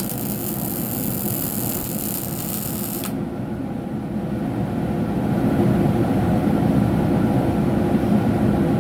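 MIG welding arc crackling with a bright hiss that stops abruptly about three seconds in, leaving a steady low machine hum that grows louder near the middle.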